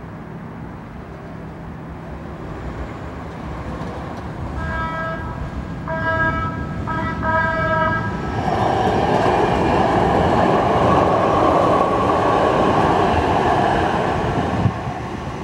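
Train approaching a grade crossing: its horn sounds in three blasts of about a second each, about five seconds in. The train then passes through the crossing, with loud steady rail and wheel noise that eases off near the end.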